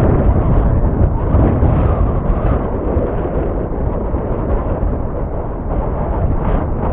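Gusty wind buffeting the microphone: a loud, uneven low rumble that swells and eases with the gusts.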